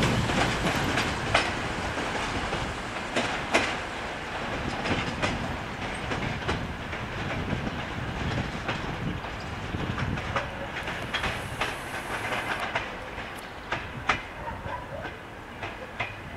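Diesel multiple unit rolling slowly into the station, its wheels giving irregular clicks and clacks over rail joints and points above a steady running rumble. The sound grows gradually quieter toward the end.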